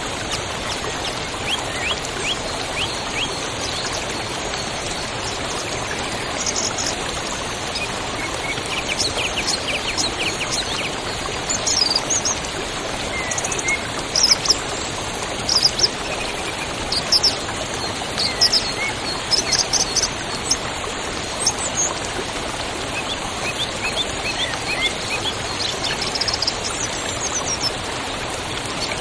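Steady rush of flowing river water, with songbirds chirping and trilling over it. The bird calls come thickest through the middle.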